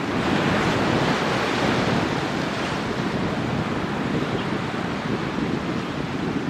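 Steady roar of an Airbus A220-300's Pratt & Whitney PW1500G turbofans heard from outside, swelling briefly in the first couple of seconds, with wind buffeting the microphone.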